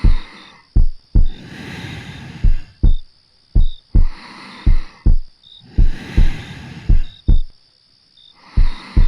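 A slow heartbeat heard up close, a double thump (lub-dub) a little under once a second, under soft, slow breathing that swells in and out.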